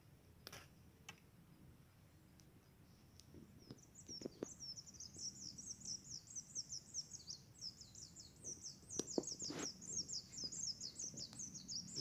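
A small bird singing a long, rapid, high-pitched trill of quickly repeated notes, starting about three to four seconds in, with a few faint knocks.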